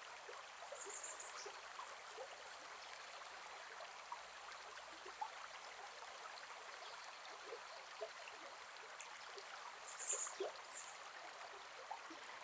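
Gentle forest river flowing: a steady rush of water with small gurgles and bubbling blips. Two brief high chirps stand out, one about a second in and a louder one near the end.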